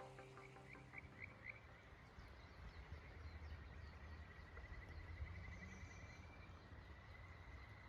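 Animal calls, a series of short high chirps speeding into a rapid trill and settling into a steady high trill, faint over a low steady background noise.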